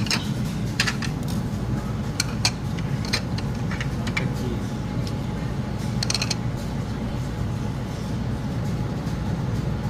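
Steady low rumble of a truck's engine, with scattered clinks and clatters of kitchen utensils and dishes several times in the first six seconds or so.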